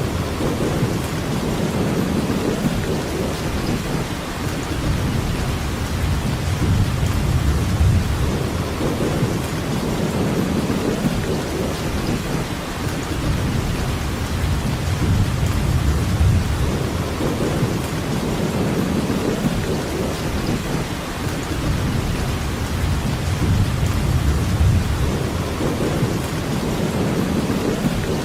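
Steady rain with a deep, low rumble underneath that swells and fades every second or two.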